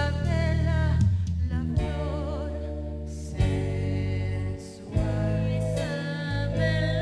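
Singing with instrumental accompaniment: voices hold long notes with vibrato over a steady bass line, and new phrases begin twice partway through.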